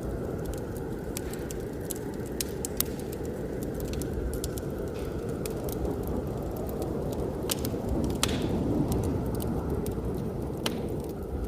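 Wood fire crackling with irregular sharp pops over a steady, deep rush of blizzard wind.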